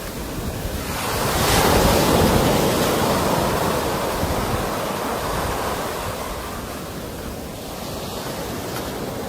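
Sea waves breaking on the shore: one wave surges up to a loud wash about a second and a half in, then slowly recedes. Wind rumbles on the microphone.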